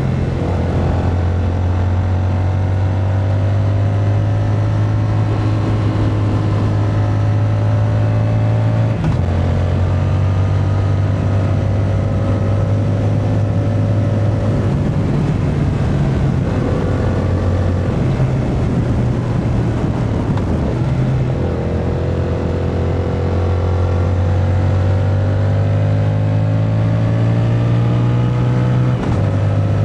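Yamaha MT-07's 689cc parallel-twin engine under acceleration on the road, its pitch climbing steadily and then dropping suddenly at gear changes: about nine seconds in, a few times between fifteen and twenty-one seconds, and again near the end. Wind rush is heard under the engine throughout.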